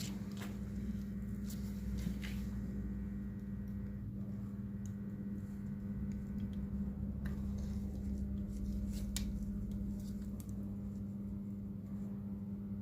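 Scattered small clicks and scrapes from handling tools and phone parts during a smartphone display repair, over a steady low electrical hum.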